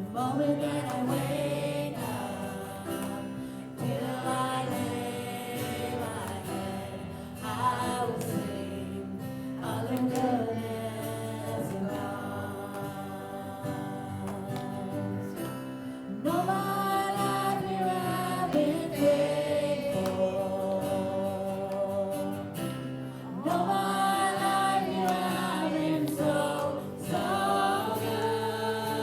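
Gospel song: voices singing together over guitar accompaniment, phrase after phrase.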